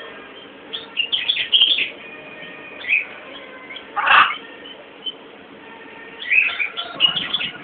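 A bird chirping in short clusters of high, twittering calls: three groups, with one brief, louder, harsher call about four seconds in.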